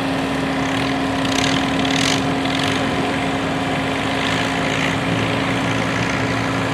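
Classic farm tractor engine running at a steady speed under load, a constant drone at one pitch, as on a pulling run.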